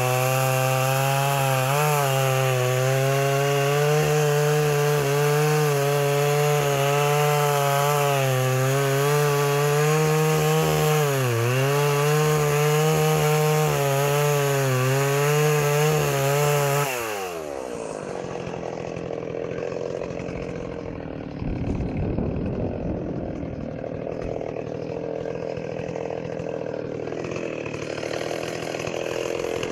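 Stihl 038 Magnum two-stroke chainsaw running at high revs while cutting through wood, its pitch sagging briefly twice as the chain bites. About seventeen seconds in, the revs fall away sharply and it runs on quieter and lower.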